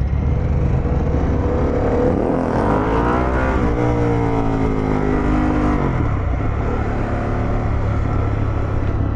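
Harley-Davidson Pan America's V-twin engine under way over a steady low rumble; the revs climb about two seconds in, hold, and drop off about six seconds in.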